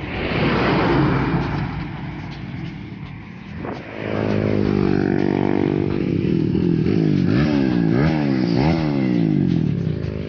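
250cc motorcycle running through an aftermarket Andy Speed exhaust, its engine note climbing and dropping several times as it is revved. It gets louder about four seconds in, after a rushing noise in the first few seconds.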